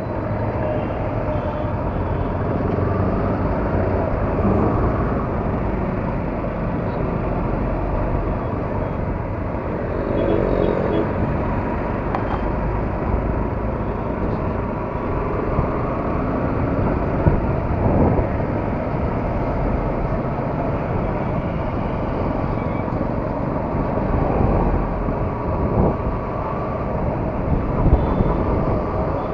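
Yamaha R15 motorcycle on the move: steady wind rush on the microphone over the engine and road noise, with a few brief knocks.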